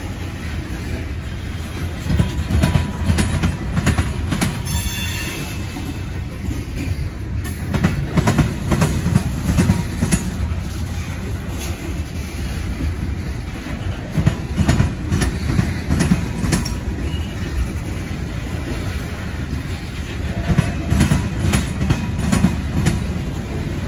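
Freight train of covered hopper cars and tank cars rolling past, with a steady low rumble of steel wheels on rail. Groups of clacks come about every six seconds as each car's wheel trucks pass over the rail joints, and a brief high wheel squeal sounds about five seconds in.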